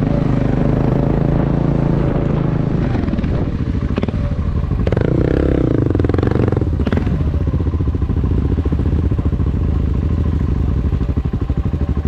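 Motorcycle engine running under way. Its note drops about three seconds in, there is a short louder stretch around five to six seconds, and then it settles into a lower, evenly pulsing beat.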